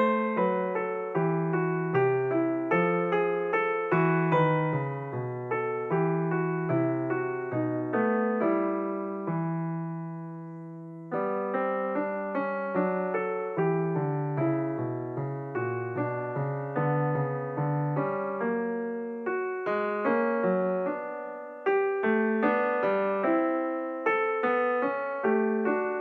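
Background piano music: a gentle melody of struck notes over a low accompaniment, with one held chord fading away about ten seconds in before the playing resumes.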